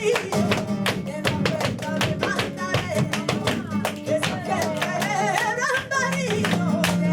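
Live flamenco tangos: an acoustic flamenco guitar playing chords under a singer's wavering, ornamented vocal line, with many sharp percussive strikes in quick succession.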